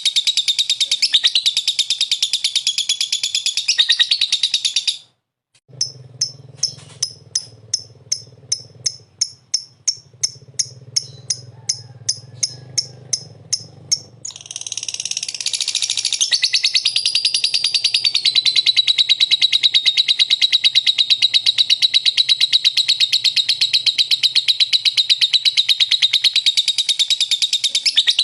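Lovebird singing a long, rapid, unbroken chattering trill, the continuous 'konslet'-style song. About five seconds in it cuts off briefly and gives way to a run of sharp chirps, two or three a second, over a low hum. The rapid trill resumes around fourteen seconds in.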